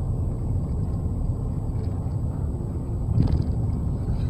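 Steady low road and engine rumble inside a moving pickup truck's cab, with a short burst of noise about three seconds in.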